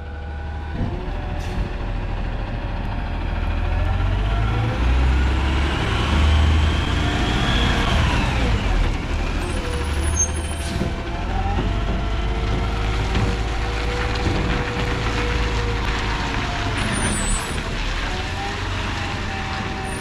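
Garbage truck's diesel engine running under load, revving up and down several times. A brief hiss of air about ten seconds in.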